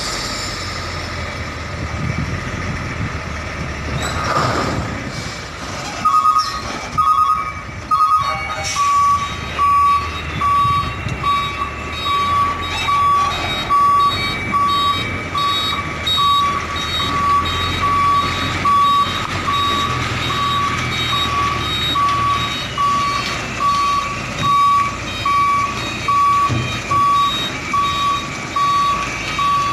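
A truck's reversing alarm beeping steadily, about one beep a second, over the low rumble of the truck's engine running; the beeping starts a few seconds in.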